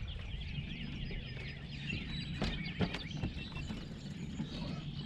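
Birds chirping over a steady low rumble, with two sharp knocks close together near the middle.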